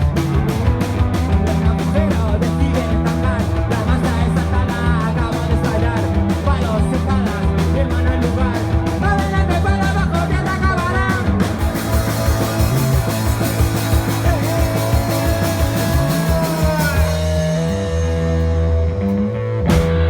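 Rock band playing: a steady drum beat under bass and electric guitar, with wavering guitar lines. About halfway through the cymbal beat stops, and the last few seconds are long held notes.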